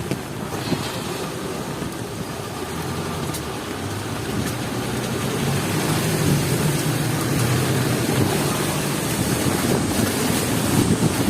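Heavy rain with road traffic, and a vehicle engine growing louder about halfway through.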